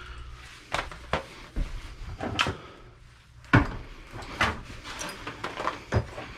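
Scattered knocks and clicks, about eight in all, of salvaged computer parts and scrap being handled and set down. The loudest knock comes about three and a half seconds in.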